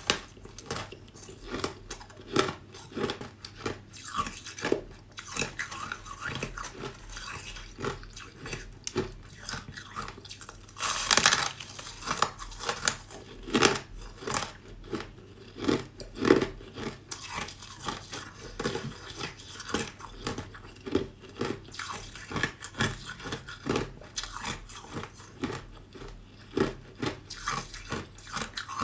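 Ice being bitten and chewed close to the microphone: a run of short, sharp crunches with steady chewing between them, and one longer, louder crunch about eleven seconds in.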